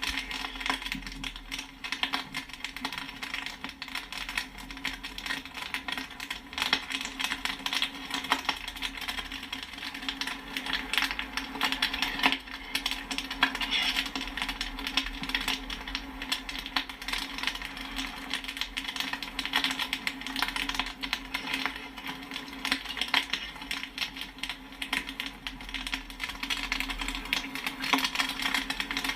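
Popcorn kernels popping fast and densely, a continuous run of small sharp pops and pings, over a steady low hum.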